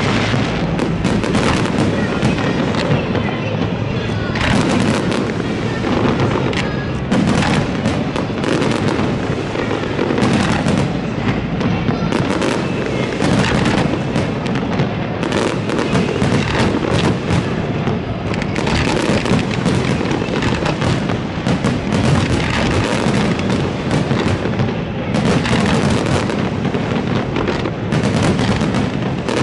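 A fireworks display going off nonstop: a dense run of shell bursts and crackle, with one report quickly following another.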